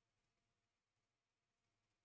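Near silence: essentially no sound, only a very faint noise floor.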